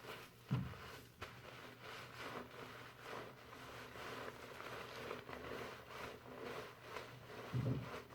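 Fingers working foamy shampoo lather through hair, a soft crackly rustling in repeated strokes. Two low bumps come about half a second in and near the end.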